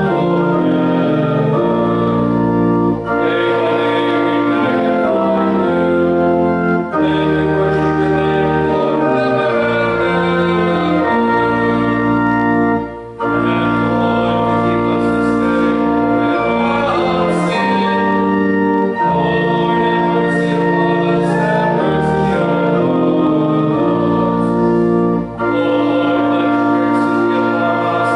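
Church organ playing sustained chords in slow phrases, with brief breaks between phrases like a hymn tune.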